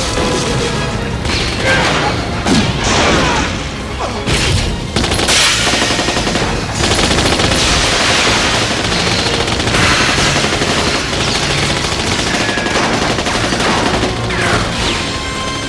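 Sustained automatic gunfire, volley after volley of rapid shots, over an action film score.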